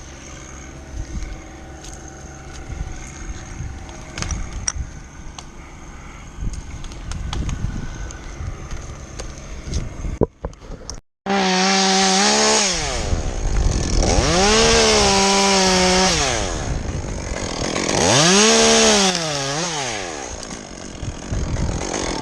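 Chainsaw cutting, its pitch climbing and falling in three revving surges over the second half, after about ten seconds of quieter rustling and clicks.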